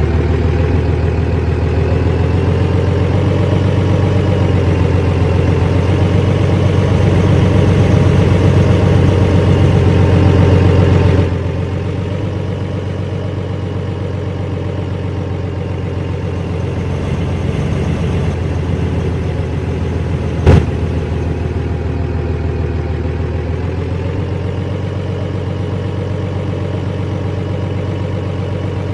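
Vehicle engine running steadily. Its level drops suddenly about eleven seconds in, and there is a single sharp click about twenty seconds in.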